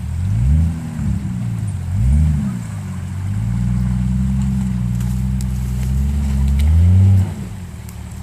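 Jeep Cherokee XJ engine revving up and down twice, then pulling at steady higher revs for about four seconds while crawling over the river-bed trail, before the revs drop off suddenly near the end.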